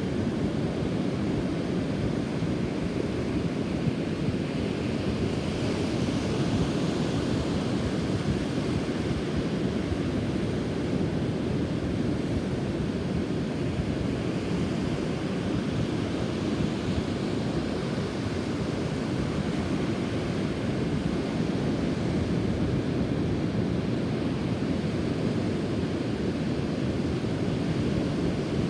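Rough sea surf washing onto a beach under strong wind, the sea stirred up by a typhoon passing nearby. Wind buffets the microphone with a constant low rumble, and the hiss of the surf swells up about six seconds in and again around twelve seconds.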